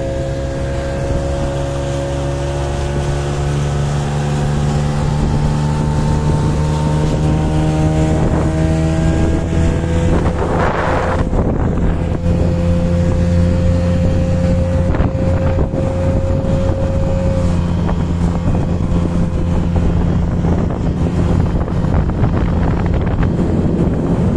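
Boat engine running steadily, its pitch creeping slowly upward for the first several seconds, with wind on the microphone.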